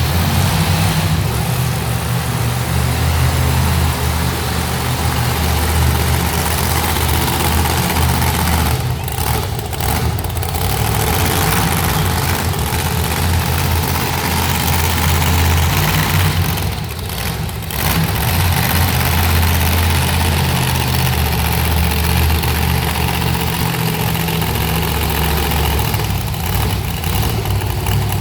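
Monster truck engine running loud and steady, easing off briefly about nine seconds in and again about seventeen seconds in.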